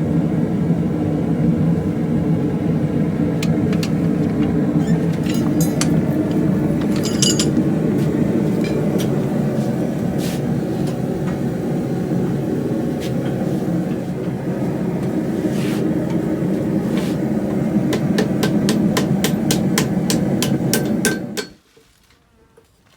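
Gas forge burner running with a steady roar, with scattered light metallic clicks over it; the roar cuts off suddenly about 21 seconds in.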